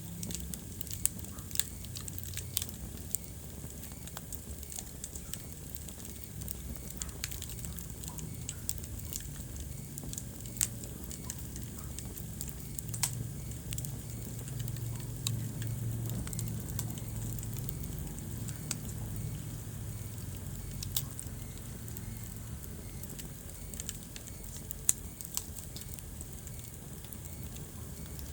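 Wood fire in a fireplace crackling, with frequent sharp pops scattered irregularly over a low, steady rumble of the flames that swells somewhat midway.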